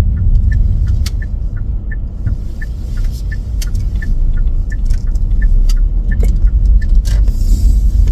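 Car cabin rumble of the engine and tyres while driving, with a light regular ticking about two to three times a second.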